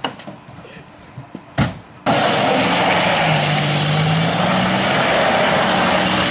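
A few soft knocks, then a loud engine starts running abruptly about two seconds in, with a steady low hum under a rushing noise.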